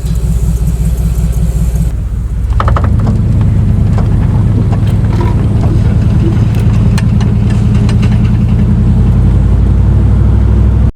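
Car engine and road noise heard from inside the cabin while driving: a steady low rumble that gets louder about three seconds in, with a few faint ticks.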